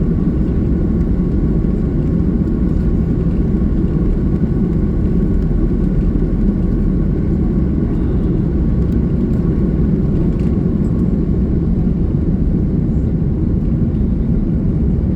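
Airbus A330-300 cabin noise heard from a rear window seat: a loud, steady low rumble of the jet engines and airflow, with a faint steady whine above it.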